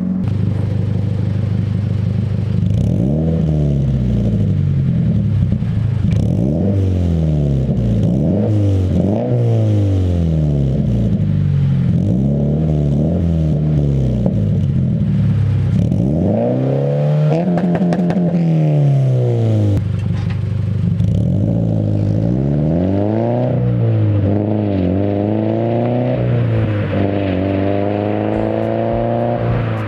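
Subaru BRZ's flat-four engine through a Remark R1 single-exit catback exhaust with no resonator, revved up and down over and over, the pitch rising and falling with each rev and held higher near the end. The note is deep and loud.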